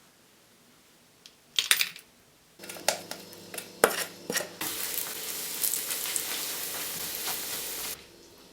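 Kitchenware clattering, a short burst and then several sharp knocks, followed by a steady sizzling hiss that cuts off suddenly near the end.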